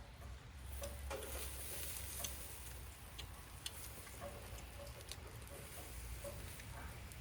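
Wood fire crackling with scattered sharp pops over a steady hiss, while light rain falls.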